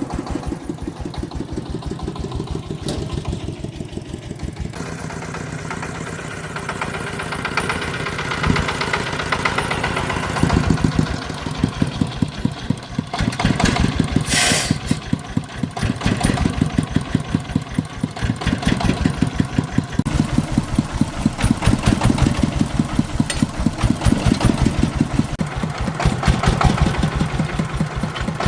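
An engine running with an even, fast thumping beat that gets louder about five seconds in and stays up. Halfway through there is a short hiss.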